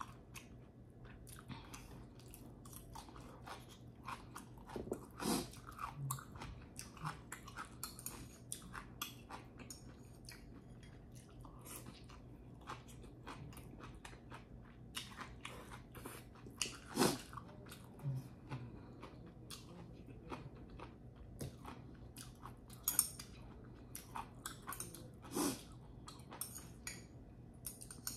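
Close-up chewing and eating of pasta: wet mouth clicks and smacks coming irregularly throughout, with a few brief sounds that fall in pitch, the loudest about two-thirds of the way through.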